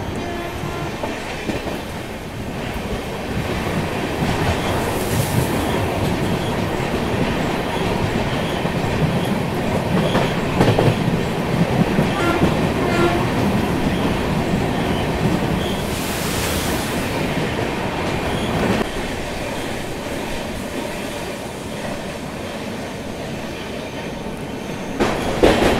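Passenger train running along the track, heard from on board: a steady rumble with wheels clattering over rail joints. Two short rushes of hiss come about five and sixteen seconds in.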